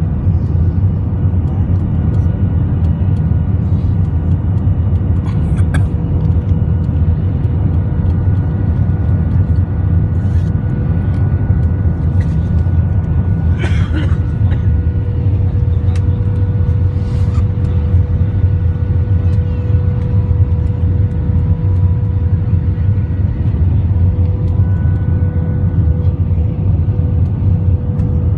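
Airliner cabin noise in flight: the jet engines' steady, loud low drone with a faint steady hum over it.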